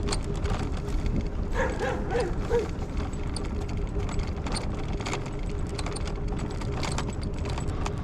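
Steady low rumble of a vehicle on the move, with scattered small clicks and rattles.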